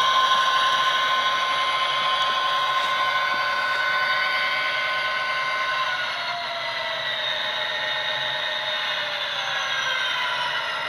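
HO-scale Athearn Genesis SD60M model locomotive running on its Tsunami sound decoder: a steady hum of several high tones from the diesel engine sound through its small speaker. About six seconds in, the tones start to fall slowly in pitch.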